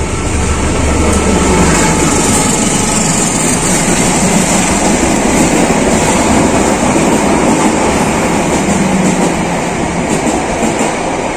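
A passenger train rolling past close by, its wheels on the rails making a loud, steady rush of noise that eases slightly near the end.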